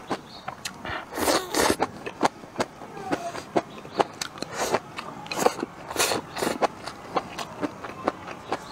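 Close-miked chewing of crisp stir-fried bamboo shoots: quick crunching clicks several times a second, with a few louder slurping bursts as strands are sucked in, the loudest about a second and a half in and around six seconds in.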